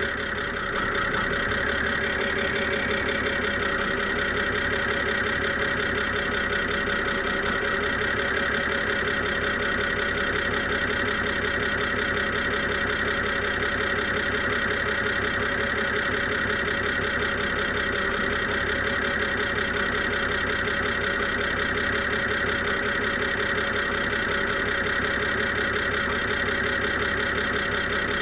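BMW E92 325i engine idling steadily, with a steady high-pitched screech over the running. The car is logging a combustion misfire, and the owner takes the screech for an air leak.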